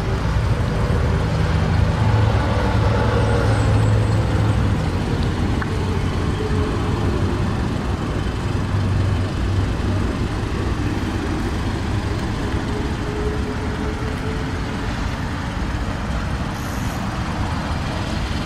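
Motor vehicle engine running with road-traffic noise. It swells a few seconds in, then eases off.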